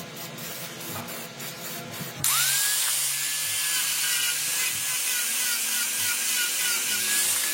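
Regular scraping strokes, about three a second, then a small high-speed power tool starts about two seconds in. Its whine rises and levels off to a steady high pitch over a loud hiss.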